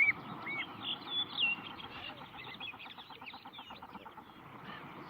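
Birds calling: three loud, short, arched calls in the first half second, then a busy mix of chirps and a fast, stuttering trill in the middle.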